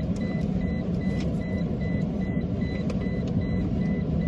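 Car seatbelt-reminder chime beeping steadily, a high tone about twice a second, over the steady hum of the car's running air conditioning blower.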